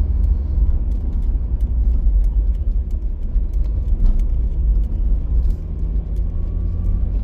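Car driving: a steady low rumble of engine and road noise, with faint scattered ticks.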